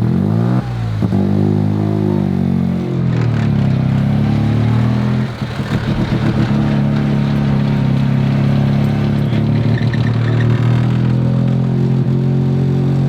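Single-rotor Mazda rotary engine, built from a 13B, running under way. The revs fall off over the first couple of seconds, climb again around four seconds in, dip briefly just after five seconds, and then hold steady.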